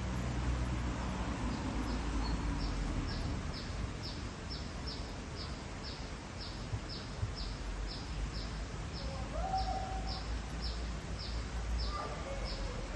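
A bird giving short, high, thin chirps over and over, about two a second, each dropping slightly in pitch, over a low background rumble.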